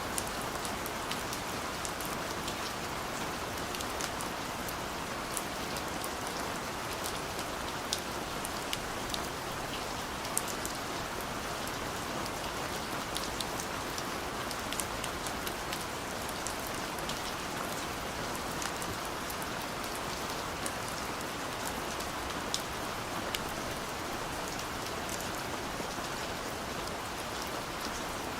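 Steady rain falling, with a constant hiss and many small, sharp drop ticks scattered through it.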